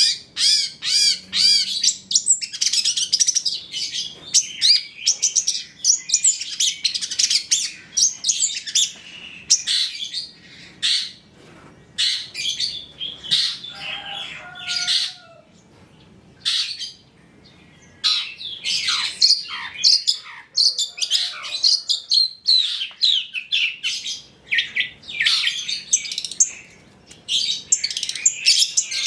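Long-tailed shrike (cendet) singing a fast, varied song of chirps, trills and mimicked phrases of other birds, with a short lull about halfway through.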